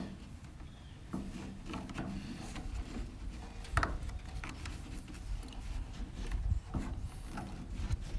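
Handling noises as a plastic zip tie is worked around a heater/AC duct hose under a truck's dash: scattered rubbing, light knocks and clicks, with one sharper knock a little before the middle.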